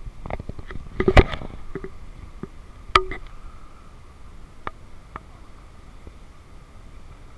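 A few knocks and clicks over a faint steady hum: a cluster of knocks about a second in, a sharp click about three seconds in, then a few light ticks.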